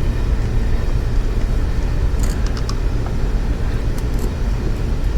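Steady low rumble with a few faint, short clicks.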